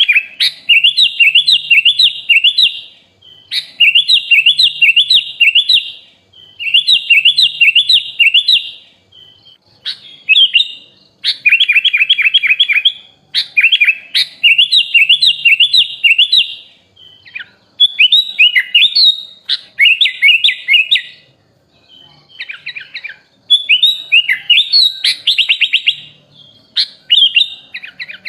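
Sooty-headed bulbul (kutilang) singing loudly in phrases of rapid, bright chirping notes, each phrase lasting a second or two with short pauses between. The phrases grow more varied in the second half, with a fast trill near the end.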